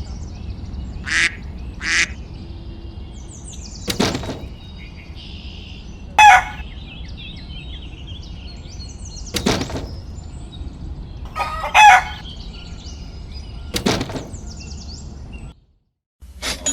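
Domestic fowl calling in short, loud squawks every few seconds, with faint high chirping and a steady low hum underneath.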